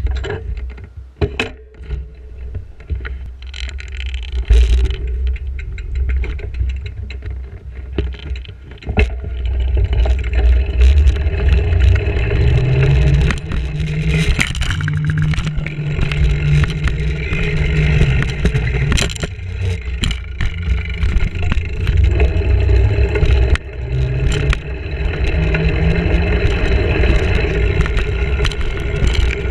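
Wind buffeting a GoPro's microphone and the bicycle rattling and clicking over the road while riding, louder and steadier from about nine seconds in.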